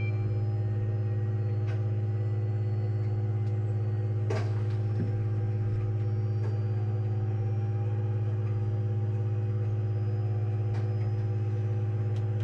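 Steady electrical hum in the H125 helicopter's cockpit before engine start, a low even drone with a few faint clicks about four and five seconds in.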